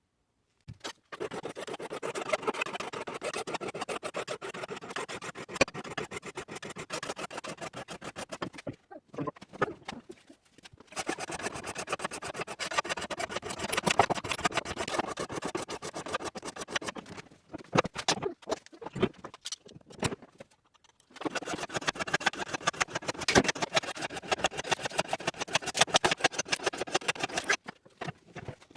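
Rapid, rasping strokes of a hand tool worked back and forth, in three long spells with short pauses between.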